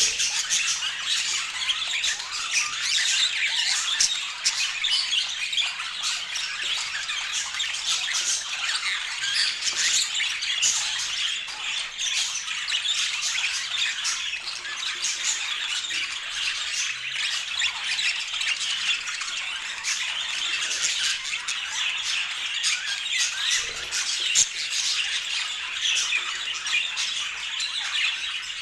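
A group of budgerigars (budgie parakeets) chattering continuously, many short, high-pitched calls overlapping without a break.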